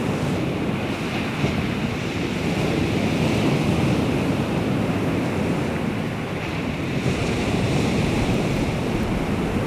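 Baltic Sea waves washing on the shore, a continuous surf wash that swells and eases every few seconds, with wind rumbling on the microphone.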